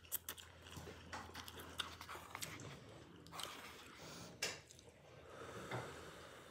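A person chewing mouthfuls of instant ramen noodles, with faint wet mouth clicks scattered through.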